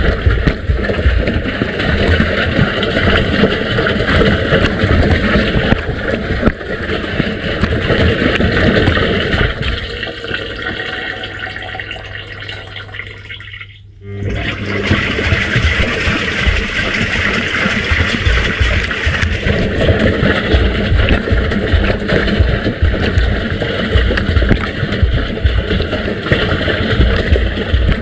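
Washing machine drum turning a load of wet laundry in the wash cycle, with water sloshing and splashing. About halfway through the sloshing fades to a low steady hum, drops away briefly, and then starts up again.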